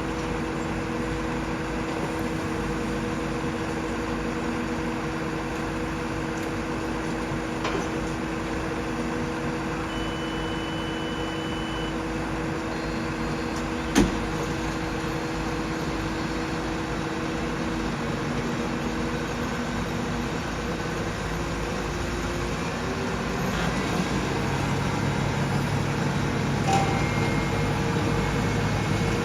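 Steady droning hum of the RAF Airbus A400M Atlas's four turboprop engines, a continuous rush with a held tone under it and no rise or fall in pitch. There is a single sharp click about halfway, and a lower hum joins in near the end.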